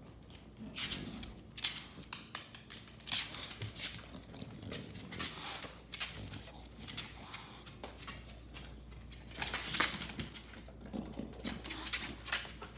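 Close-up sounds from an American bulldog: short, irregular noisy bursts.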